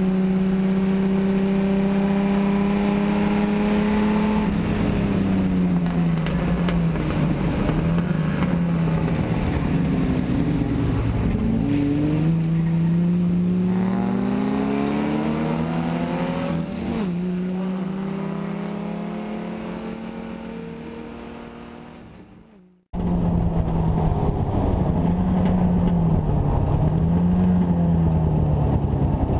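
Race car engine heard from inside the cockpit on track, its pitch climbing and dropping again and again as the car accelerates, shifts and slows for corners. About 22 seconds in, the sound fades away. It cuts to another race car's engine from its cockpit, again rising and falling in pitch.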